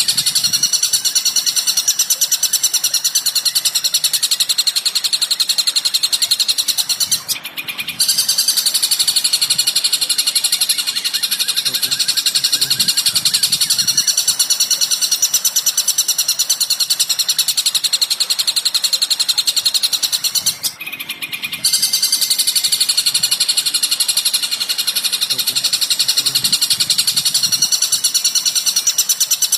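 Recorded bird calls played as masteran tutor material: a loud, rapid, continuous high-pitched chattering that breaks off briefly twice.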